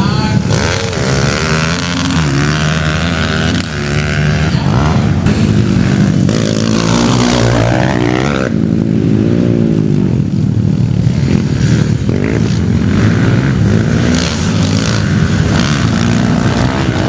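Motocross dirt bike engines running and revving, their pitch rising and falling again and again.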